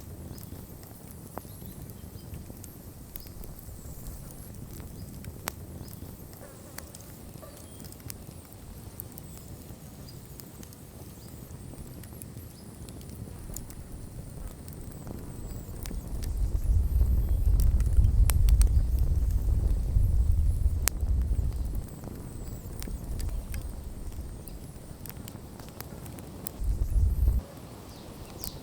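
Wood fire crackling, with scattered sharp pops and snaps. Past the middle, a low rumble swells for about five seconds and then drops away, and it comes back briefly near the end.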